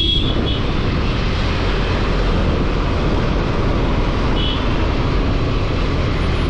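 Steady rushing wind and road noise from riding a motorcycle at highway speed, with the engine running underneath and a brief high-pitched tone about four and a half seconds in.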